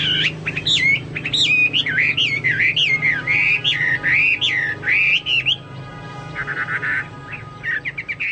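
Chinese hwamei (hoa mi) singing actively in a style like a cucak Papua or cucak mas: a run of loud whistled phrases that glide up and down, then a short fast trill about six and a half seconds in, then a few chirps near the end. A steady low hum runs underneath.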